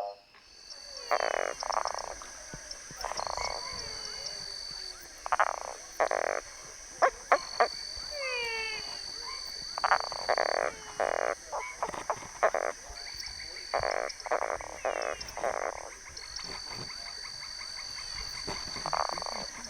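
Boana semilineata treefrog calling: short notes repeated irregularly, often two or three close together, over a steady high buzz from other calling animals that stops and starts.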